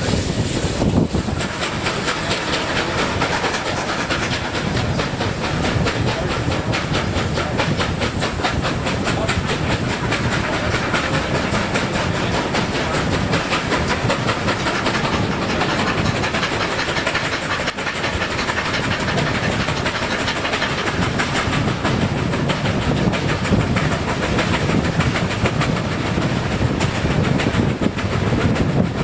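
Train running at speed along the rails: a steady, loud rumble and rattle with a fast, even clatter throughout.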